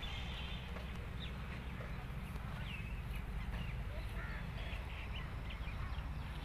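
Birds chirping and calling here and there, short scattered calls over a steady low rumble.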